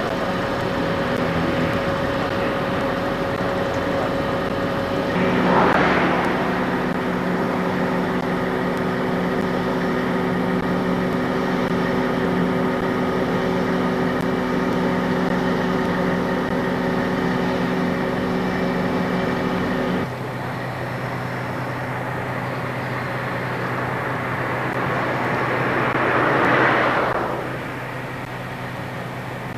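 FS D345 diesel locomotive's engine running with a steady droning note. The note shifts about five seconds in and changes abruptly about twenty seconds in. Two brief swells of hissing noise rise and fade, around six seconds in and near the end.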